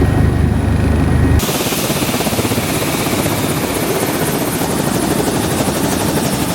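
Helicopter running loud and steady. About a second and a half in the sound changes abruptly, as at a cut, from a deep low throb to a hissier, wider noise with a fine rapid beat.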